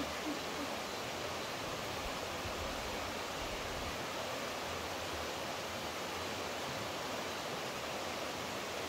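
Steady, even rushing of flowing water, as of a stream or small waterfall.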